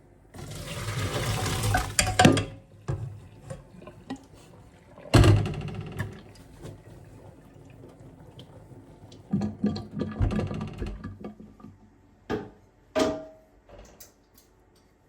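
Water running from a tap for about two seconds, followed by knocks, clinks and clatter of kitchenware being handled, with one short ringing clink near the end.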